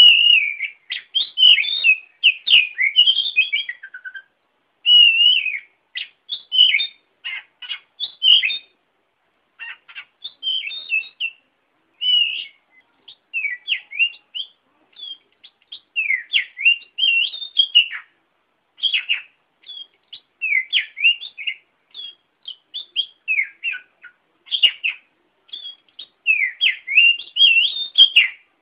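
Songbird singing in quick, varied phrases of high chirps and whistles, broken by short pauses; it is a recorded lure song played to get a caged bird to sing.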